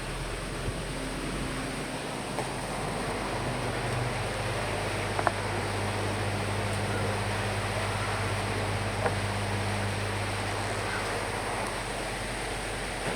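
Steady rain with wind: an even hiss over a low steady rumble, with a few sharp single drops ticking now and then.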